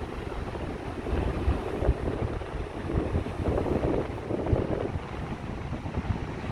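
Gusty wind buffeting a phone's microphone, over the wash of a rough sea.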